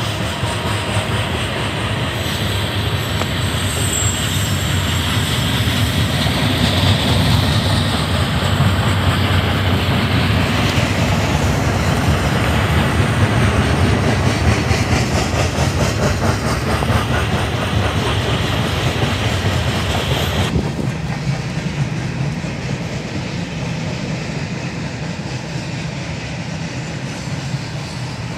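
Freight train cars rolling past close by: a steady, loud rumble and rattle of steel wheels on the rails. About twenty seconds in it cuts suddenly to a duller, more distant rumble.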